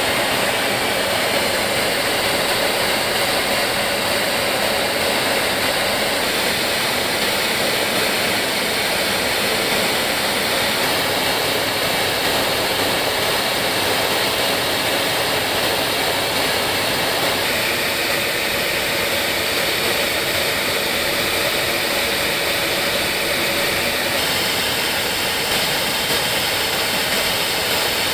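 Jet aircraft engine noise, a steady unbroken rush with no speech, shifting slightly in tone about two-thirds of the way through and again near the end.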